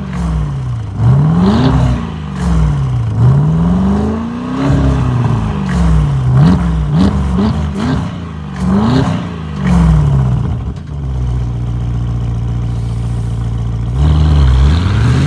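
Porsche Panamera's 4.0-litre twin-turbo V8 through an aftermarket sports exhaust being revved while stationary. It starts with slow sweeps up and down, then a run of quick throttle blips. It settles to a steady idle for a few seconds and revs again just before the end.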